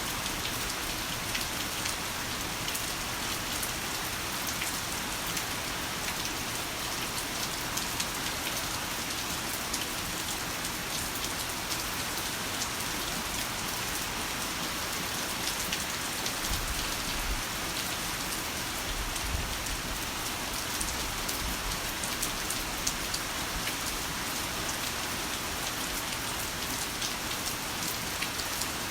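Heavy rain falling steadily, a dense even hiss speckled with many sharp drop ticks.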